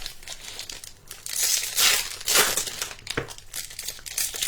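Trading card pack wrappers crinkling and tearing as Bowman baseball card packs are ripped open by hand, with a louder run of crinkling about a second and a half in.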